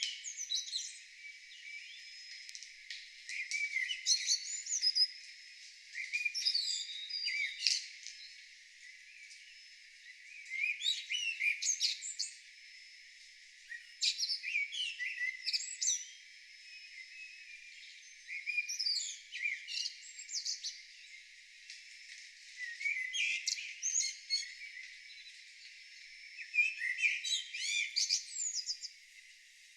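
A songbird singing short, varied phrases of whistles and trills, about eight phrases with brief pauses between them, while other birds chirp more faintly in the background.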